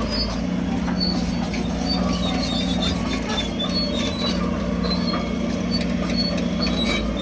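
Bulldozer's diesel engine running steadily under load, with short high squeaks and chirps from its steel crawler tracks as they move.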